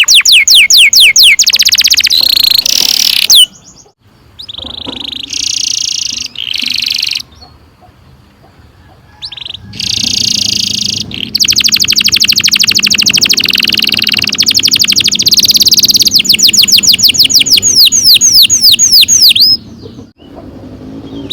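Domestic canary singing long rolls: fast runs of high, downward-sweeping whistled notes and rapid trills. There is a softer, broken-up stretch of song from about 4 to 9 seconds in, then the loud rolling resumes.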